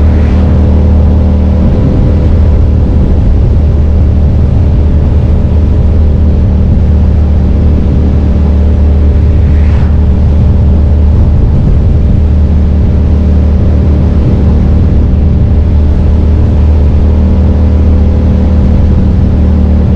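2005 Suzuki SV650S's 645 cc V-twin engine running under way at a steady, unchanging pitch, heard from a mirror-mounted camera.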